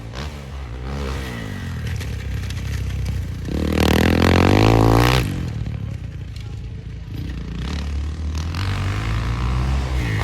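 Motocross dirt bike engine revving, its pitch rising and falling as the throttle opens and closes. The loudest burst of revving comes about three and a half seconds in and lasts under two seconds, then the engine drops back and builds again near the end.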